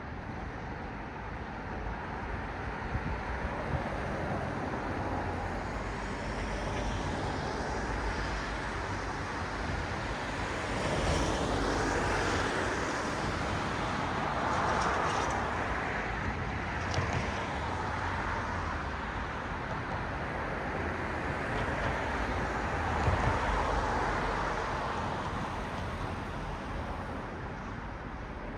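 Cars passing one after another on a road, their tyre and engine noise swelling and fading as each goes by. The loudest passes come about a third of the way in, around the middle, and again about three quarters of the way through.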